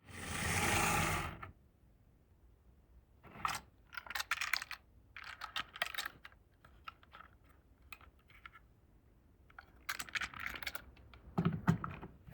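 Glass marbles rolling and clattering down a HABA wooden marble run, in bursts of quick clicks and clacks that come and go, the loudest bunches about ten and eleven and a half seconds in. It opens with a short swell of hiss lasting about a second and a half.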